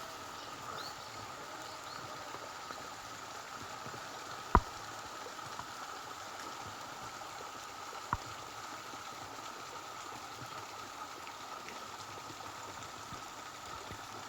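Steady rural outdoor ambience: an even hiss with a constant high drone, broken by two sharp clicks, a loud one about four and a half seconds in and a softer one about eight seconds in.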